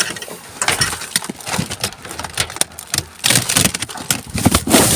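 Rummaging through a bin: hard objects knocking and clattering irregularly against each other, with rustling.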